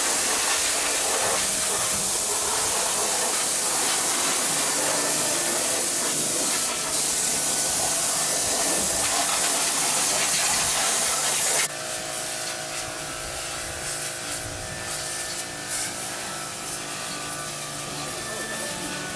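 A loud, steady hiss of a water spray jet cleaning an air conditioner. It drops off suddenly about twelve seconds in, leaving a quieter hiss with a few steady tones.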